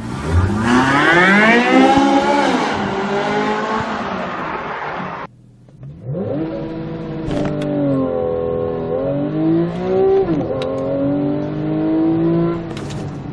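Porsche engine accelerating hard, its pitch climbing and then dropping at each upshift. The sound cuts out about five seconds in and returns with another run that climbs through several gear changes.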